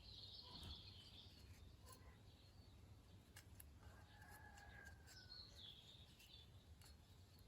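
Near silence: faint room tone with a few faint high chirps.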